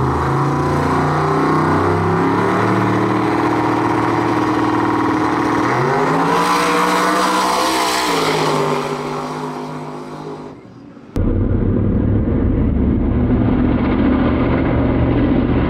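Twin-turbo Mustang drag car's engine idling at the starting line, its revs rising about six seconds in and falling back. About eleven seconds in the sound switches abruptly to the engine at full throttle as the car launches.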